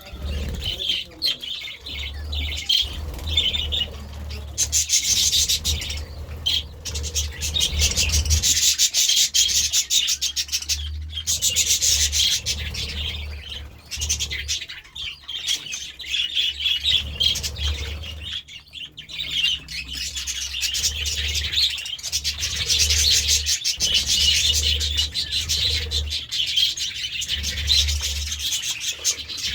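A flock of budgerigars chattering and warbling without pause in a dense, high-pitched twitter that eases off briefly a couple of times. A low rumble comes and goes underneath.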